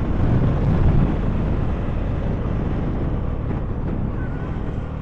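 CFMoto 300SR single-cylinder motorcycle riding, its engine under heavy wind rumble on the microphone.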